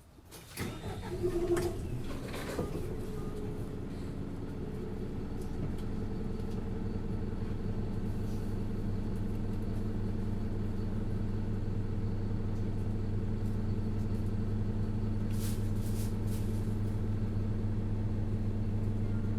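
Isuzu Erga LV290N1 bus's four-cylinder diesel engine starting about half a second in, with a few clicks, then idling steadily. A short hiss comes near the end.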